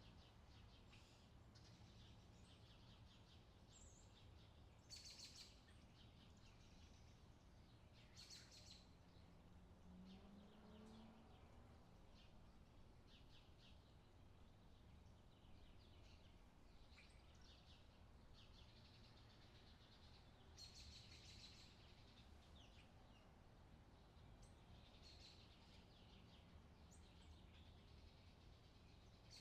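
Faint outdoor summer ambience: small birds chirping on and off over a low, steady background hum.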